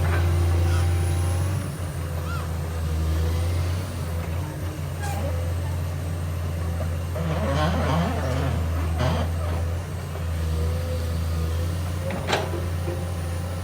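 Komatsu PC210 excavator's diesel engine running with a steady low drone. A few sharp knocks cut through it, at the start, about two-thirds in and near the end.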